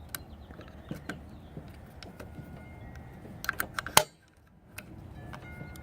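Small metal parts of a Singer 503A sewing machine clicking and tapping as its levers and mechanism are worked by hand. There are scattered light clicks, then a quick cluster of sharper clicks about three and a half seconds in, ending in one loud click.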